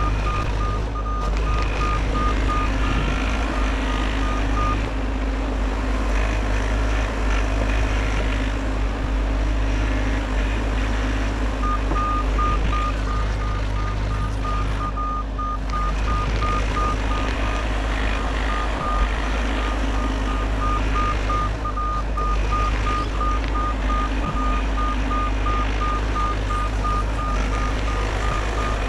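Bobcat E50 compact excavator's diesel engine running steadily as the machine works, with its travel alarm beeping rapidly on one pitch. The beeping stops about five seconds in and starts again a few seconds before the halfway point.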